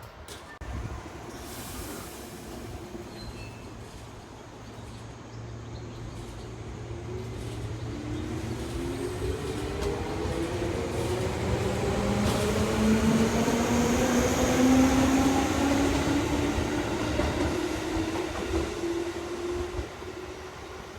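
Electric train pulling away from a station platform, its motors whining in several tones that climb steadily in pitch as it gathers speed, over a steady low hum. It grows louder through the middle and then fades as it leaves.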